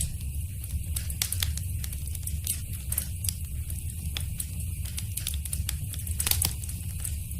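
Wood fire in a fireplace crackling, with frequent sharp pops over a steady low rumble; a quick cluster of louder pops comes a little after six seconds in.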